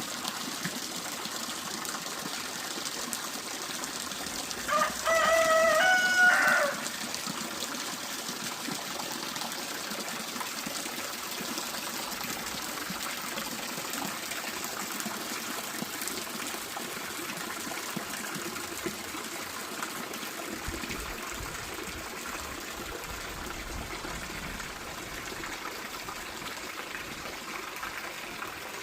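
Water flowing steadily, with a rooster crowing once, loudly, about five seconds in.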